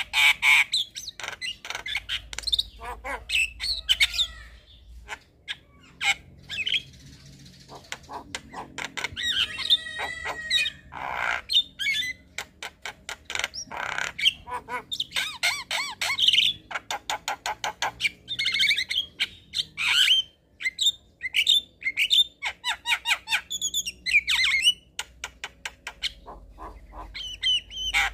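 Javan myna (jalak kebo) singing a fast, varied run of squawks, harsh chatter, clicks and whistles with hardly a pause.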